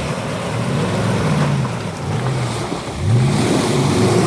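Off-road vehicle's engine revving up and down several times while driving through mud, with a sharp rev-up about three seconds in, over a steady rushing noise.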